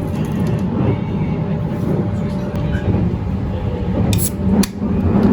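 Sunrise Izumo sleeper train running, a steady low rumble, with two sharp clicks about four seconds in.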